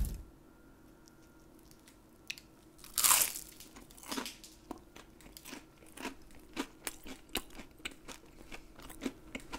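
A person biting into a charcoal-grilled Pacific saury, with a loud crunch about three seconds in, then chewing with small crunching clicks about twice a second.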